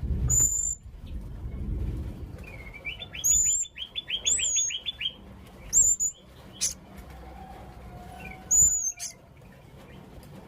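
Young blue-crowned hanging parrot (serindit) calling: short, sharp, very high-pitched calls repeated about five times, with a fast run of lower chirps a few seconds in.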